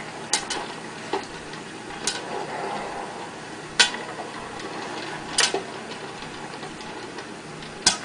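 Electric stirring popcorn popper running with a steady whir, kernels popping against its clear plastic dome in several sharp pops, one every second or two.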